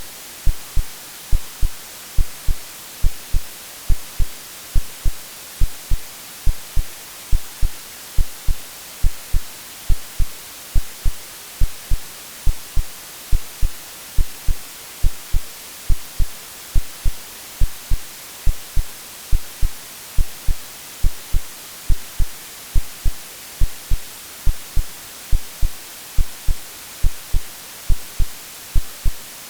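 AI-generated heartbeat sound: a steady lub-dub of paired low thumps, a little more than one beat a second, over a constant white-noise hiss. It is meant to imitate the womb sounds a baby hears before birth.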